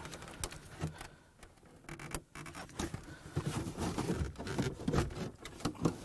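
A car's plastic center console being pried and worked free: scattered clicks, knocks and rubbing of plastic trim, growing busier in the second half.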